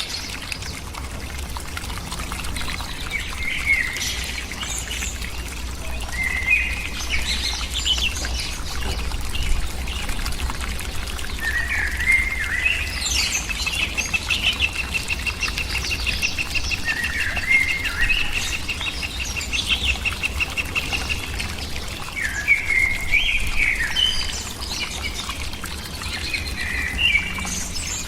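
Small birds chirping and calling in short phrases, with a long, rapid, even trill lasting several seconds about halfway through.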